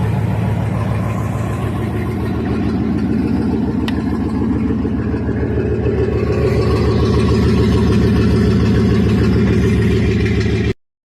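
1997 Dodge Ram SS/T's 5.9-litre Magnum V8 running smoothly at idle, a little louder about two-thirds of the way through, then cut off abruptly near the end.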